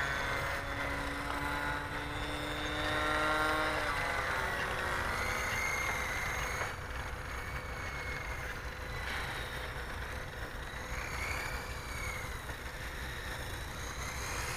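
Electric motors and counter-rotating rotors of a small Blade coaxial RC helicopter whining in flight. The pitch drops about four seconds in as the throttle is eased to bring it down, and a lower, wavering whine continues after that.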